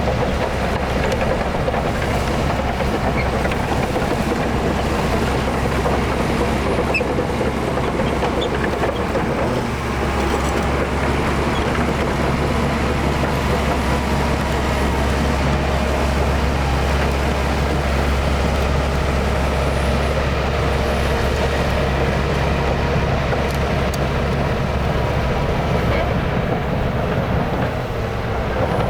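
Heavy diesel engine of a bulldozer running steadily as it works, a deep continuous rumble that grows stronger about ten seconds in.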